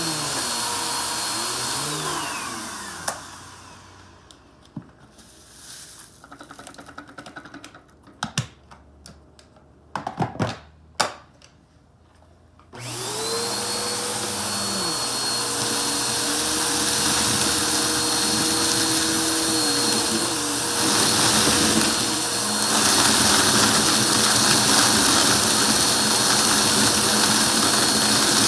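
Vacuum cleaner motor running, then switched off about two seconds in and winding down with a falling whine. A few seconds of quiet follow with clicks and knocks of handling. About thirteen seconds in it is switched back on, the whine rising as the motor spins up, and it then runs steadily.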